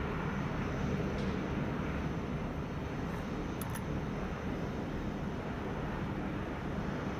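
Jet engine running on a factory test stand: a steady, unbroken low rumble that neither rises nor falls.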